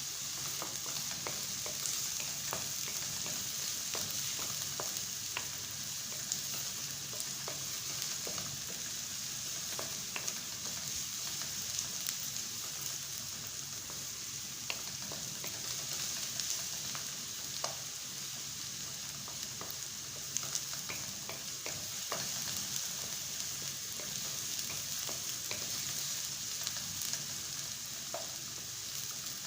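Garlic and ginger sautéing in hot oil in a pan: a steady sizzle, with scattered light clicks of a utensil stirring against the pan.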